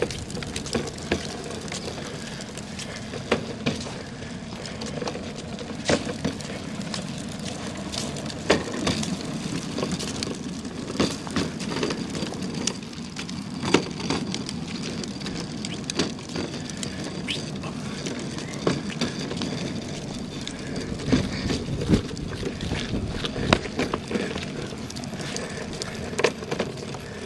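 A small vehicle rolling over rough ground: a steady rumble of wheels with many irregular clicks and knocks throughout.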